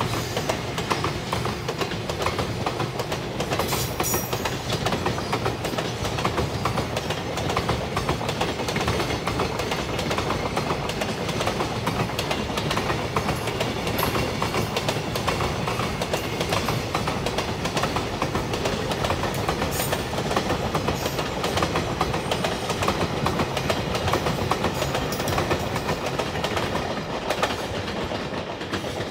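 Container flat wagons of a freight train rolling past on steel wheels, a steady clatter of wheel clicks over the rail joints, easing slightly near the end as the last wagons go by.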